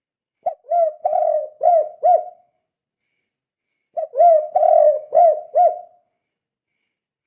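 Spotted dove (tekukur) cooing its 'kuk 2' song: two phrases of about five quick, arching coos each. The first comes about half a second in and the second about four seconds in, with silence between them.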